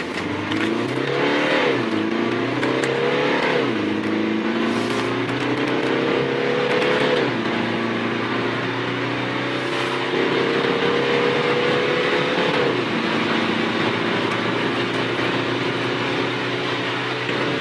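BMW 3 Series (E90-generation) turbodiesel engine accelerating hard through the gears. Its pitch climbs and drops at each of four upshifts, the climbs getting longer as the gears get taller, then it holds a steady note near the end.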